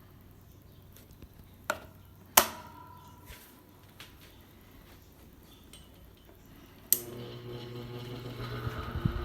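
A few sharp clicks, one a loud metallic knock with a brief ring. Then, about seven seconds in, a click and the Venti Delta Ventura 60 cm pedestal fan's motor starts: a low hum that builds as the three blades spin up.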